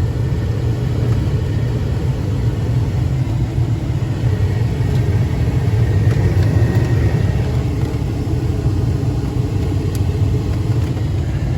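Two-door Chevy Tahoe's engine idling steadily, heard from inside the closed cab, with the A/C blower fan set on high.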